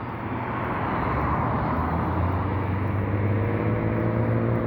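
A passing engine: a steady low hum under a broad rushing noise that grows louder through the first second or two, with a second, higher-pitched hum joining about three seconds in.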